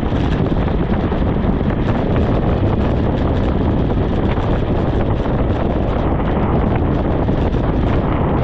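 Steady, loud wind rushing over the microphone of a camera riding on a moving bicycle, a dense rumble with no let-up.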